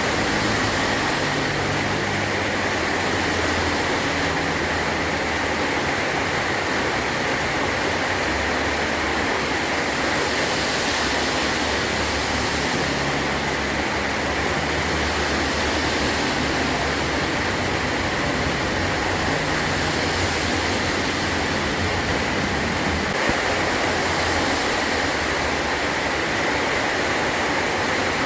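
Heavy rain pouring steadily onto a metal tin roof: an unbroken, even hiss of many drops.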